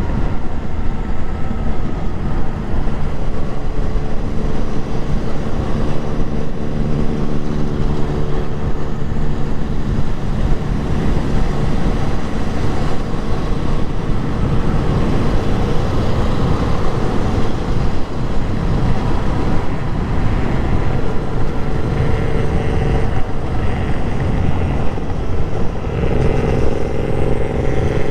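Motorcycle engine running while riding, its pitch shifting up and down with the throttle, with a stretch of rising pitch near the end.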